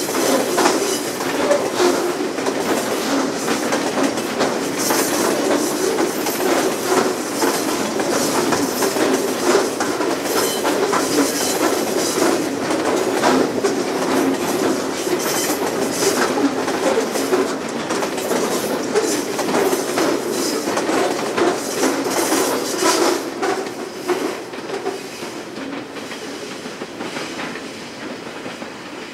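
Long train of grain hopper wagons rolling past on the rails, its wheels clicking steadily over the rail joints. The sound fades away over the last few seconds as the end of the train passes and recedes.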